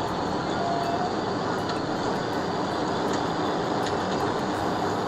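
Steady rushing road and engine noise of a police cruiser driving at highway speed in pursuit.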